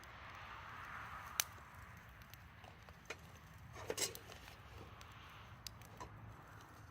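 Wood campfire crackling: scattered sharp pops over a faint hiss, with a louder cluster of snaps about four seconds in.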